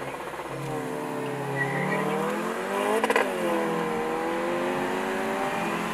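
Volkswagen Golf 7R's turbocharged 2.0-litre four-cylinder heard from inside the cabin at a full-throttle drag launch: revs climb hard, a quick burst of exhaust cracks comes at the upshift about three seconds in, then the revs drop and climb again in the next gear.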